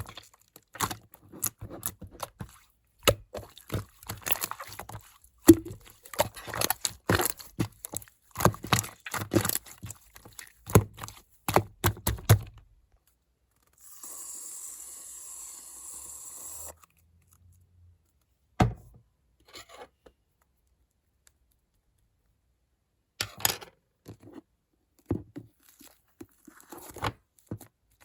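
Slime being squeezed, poked and stretched by hand: a dense run of small sticky crackles, pops and tearing sounds, then a steady hiss for about three seconds near the middle, then only scattered pops and clicks.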